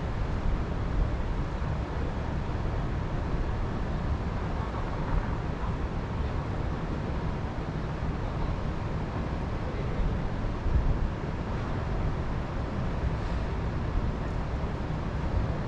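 Wind blowing steadily, with a fluttering low rumble from the wind striking the microphone.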